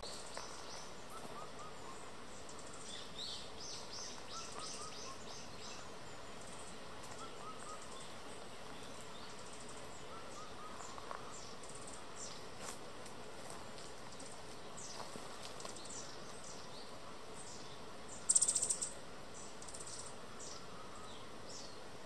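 Wild birds chirping and calling over a steady hiss of background noise, with many short high chirps and small groups of quick repeated lower notes. About eighteen seconds in there is a brief, louder, very high-pitched chatter.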